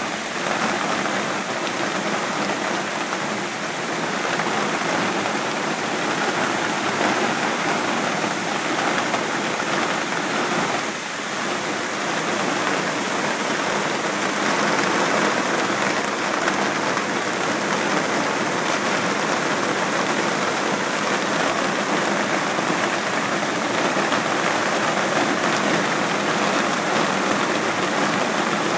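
Heavy monsoon rain pouring steadily onto coconut palms, a dense, even hiss that dips briefly about eleven seconds in.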